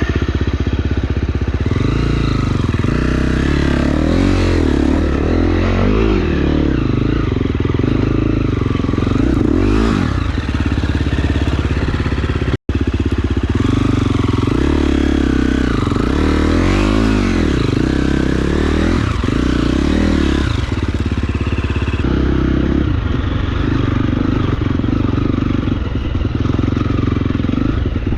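KTM enduro dirt bike engine running under way, the revs rising and falling again and again as the throttle is worked. The sound drops out for an instant about halfway through.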